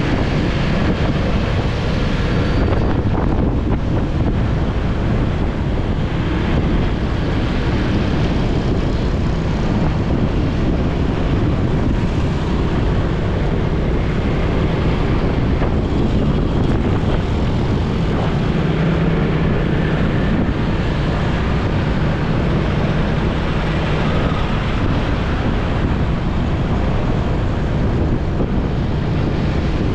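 Steady wind rushing over the microphone of a moving motorcycle, over the low running of its engine and road noise.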